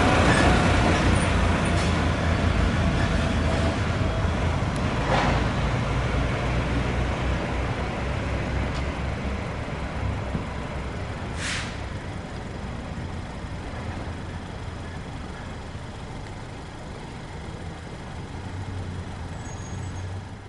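Heavy fire truck running and moving away, its engine rumble fading steadily, with a short air-brake hiss about eleven seconds in.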